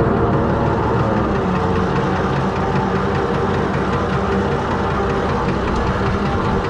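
Fordson Major tractor's six-cylinder Perkins diesel engine running steadily at low revs, the tractor pulling away slowly in first gear.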